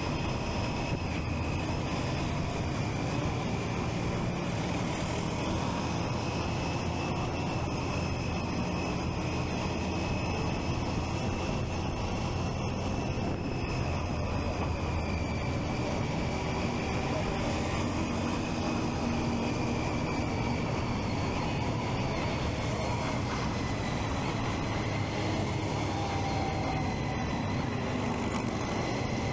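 Triumph Street Triple 675's inline-three engine running steadily on the move, with road and wind noise. A steady high whine sits above it and drifts slightly lower near the end.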